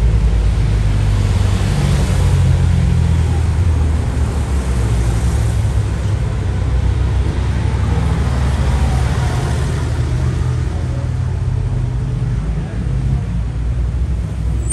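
A car driving at speed: steady engine and road rumble, heavy in the deep low end, with a faint engine note drifting up and down.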